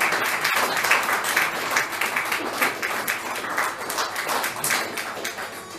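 Audience applauding, the clapping thinning and fading near the end.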